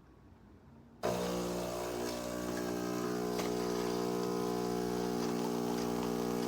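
Philips 3200 automatic espresso machine's pump starts suddenly about a second in and runs steadily with a hum and a hiss as it dispenses a cappuccino.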